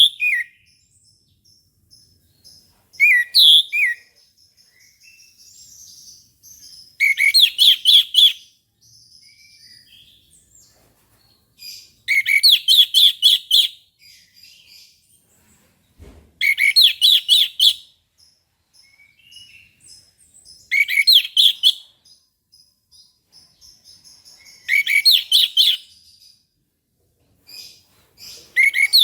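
Orange-headed thrush singing: six loud phrases of rapid repeated notes, each a second or two long, coming about every four seconds, with fainter high chirps in between.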